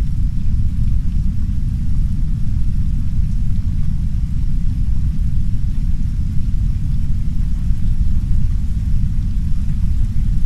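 Heavy brown noise: a loud, steady deep rumble with no breaks, and a faint soft rain hiss above it.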